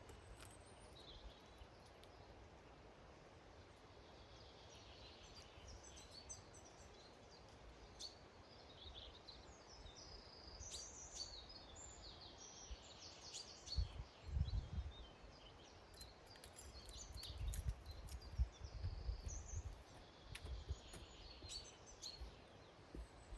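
Small garden birds chirping and calling faintly around a feeder, many short high notes scattered throughout. Low rumbles come in about midway and again a few seconds later.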